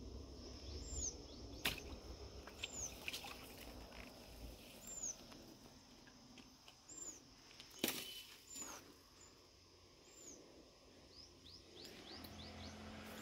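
A bird repeating a short, high, down-slurred whistle about every two seconds, over a steady high whine. Two sharp knocks stand out, one under two seconds in and one near the middle, and a quick run of short falling chirps comes near the end.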